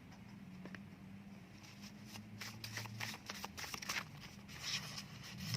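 Tarot and word cards being handled: soft rustling and a quick run of light clicks, getting busier about two seconds in, over a faint steady low hum.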